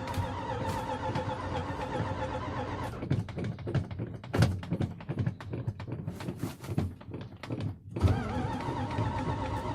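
Engine being cranked on its electric starter for a hard start: a steady starter whine. About three seconds in it gives way to a stretch of irregular knocks and clicks, then the whine comes back about eight seconds in.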